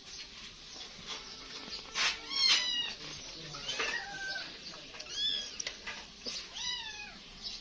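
Kitten meowing repeatedly, a series of short, high-pitched meows that rise and fall, the loudest about two and a half seconds in, as it asks for food. A sharp click comes just before the loudest meow.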